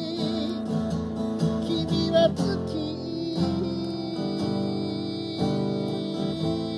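Acoustic guitar strumming chords in a steady rhythm, the instrumental part between sung lines of a song.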